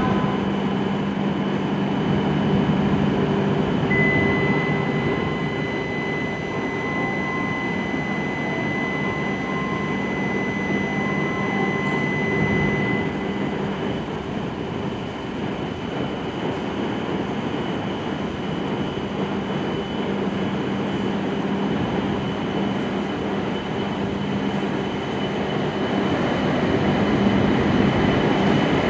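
E7 series Shinkansen trainset at the platform, with a steady train hum that grows louder near the end. A steady high tone sounds for about nine seconds, starting about four seconds in.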